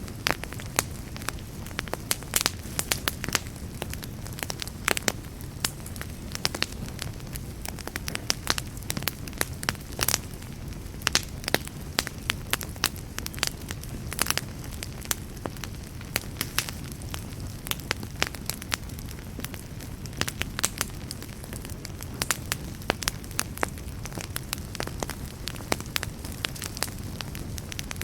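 Wood campfire burning steadily: a low, even rumble of flames with frequent sharp, irregular crackles and pops.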